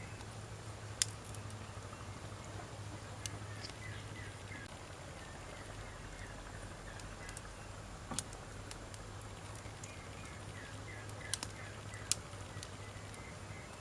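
Wood campfire burning, with a handful of sharp crackling pops over a steady low rumble. Short, quick chirps come and go in the background twice.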